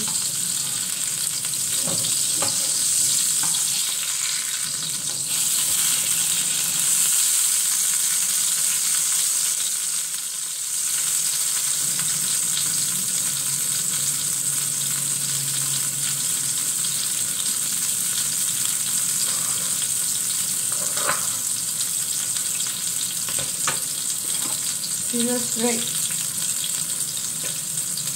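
Beef patty sizzling steadily as it fries in hot oil in a pan, with a few clicks and scrapes of a spatula against the pan.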